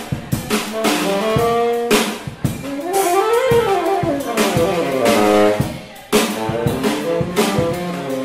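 Live jazz band playing: saxophone lead line over a drum kit with snare and rimshot hits. Midway the horn plays a quick run that climbs and then comes back down.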